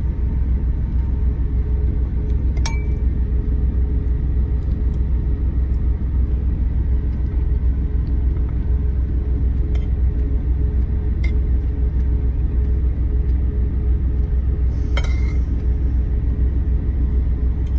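Steady low rumble with a faint hum inside the truck cab, as from the truck's engine running. Four sharp clinks of cutlery on a plate, with a short ring, break through it: near the start, twice around the middle and once near the end.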